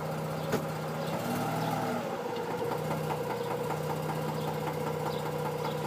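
Mazda RX-8's rotary engine idling as the transmission is put into gear: a single sharp knock about half a second in, then the idle sags briefly under the load and steadies. The knock on engaging R or P is the fault being shown.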